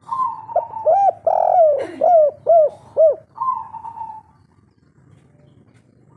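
Spotted dove (derkuku/tekukur) cooing one song phrase. It opens on a held note, runs through about six quick rising-and-falling coos, and ends on another held note about four seconds in.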